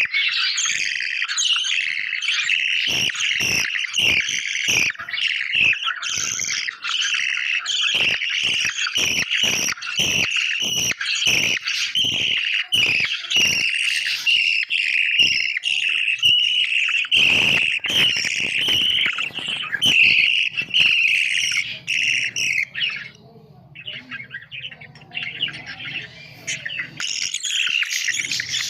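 Budgies chirping and chattering continuously and densely, with frequent sharp clicks or taps through the first two-thirds. The chirping drops out briefly a little over three-quarters of the way through, then resumes.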